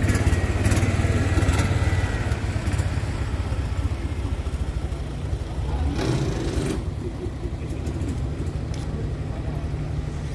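A car engine running with a deep, steady rumble, a little louder in the first two seconds. A brief rush of noise comes about six seconds in.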